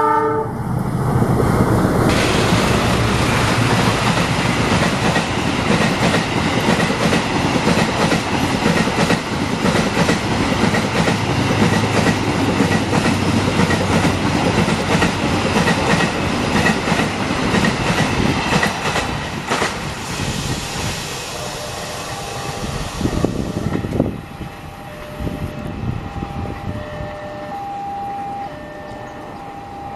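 Passenger train hauled by a GE CC206 diesel-electric locomotive passing at speed, the coaches' wheels clacking in a rapid rhythm over the rail joints. About 24 seconds in it gives way to a level-crossing alarm ringing in two alternating tones.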